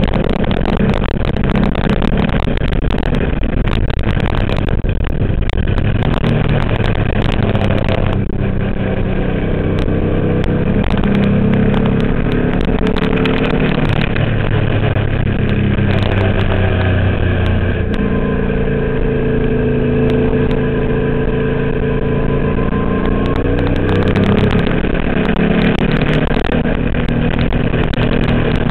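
Twin-turbo Subaru engine in a VW race car running hard, its pitch climbing and dropping again and again as it accelerates, shifts and slows.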